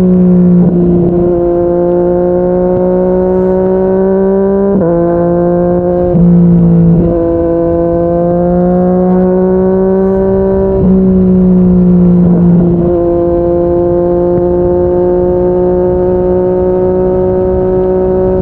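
Yamaha MT-09's three-cylinder engine through a Yoshimura R55 slip-on exhaust, cruising at a steady pitch with a steady rush of wind noise underneath. The engine note dips and surges a few times as the throttle is eased and opened again.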